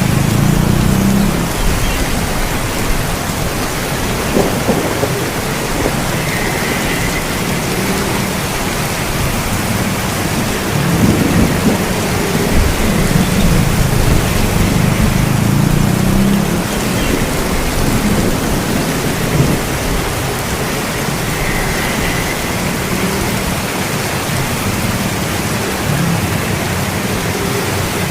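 Steady rain with low rolls of thunder, swelling near the start and again around the middle.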